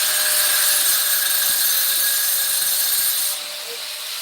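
Gasoline hissing and spraying out of the truck's fuel line as it comes loose during the engine removal. The hiss drops somewhat in level a little over three seconds in.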